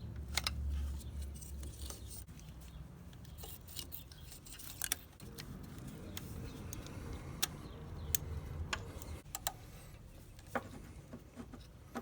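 Scattered light metallic clicks and taps of hand tools working at the supercharger's fill-plug bolt and connector, over a low rumble in the first couple of seconds.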